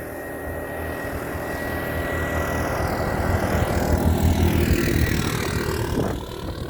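A motor vehicle passing close by, its engine and road noise building to the loudest point about four to five seconds in and falling away after about six seconds.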